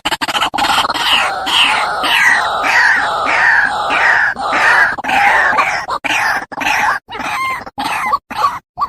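White-breasted waterhen calling: a run of harsh, repeated falling notes, about two to three a second, breaking up into separate short calls from about six seconds in.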